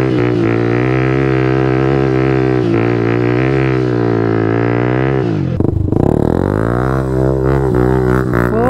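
Motorcycle engine with a loud aftermarket full exhaust, running at steady riding revs. About five and a half seconds in the revs drop sharply and pick up again.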